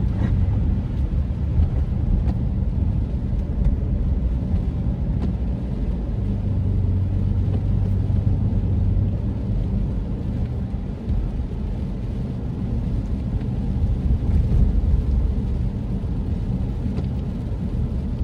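Car driving slowly, heard from inside the cabin: a steady low rumble of engine and tyres, with a low hum standing out for a few seconds in the middle.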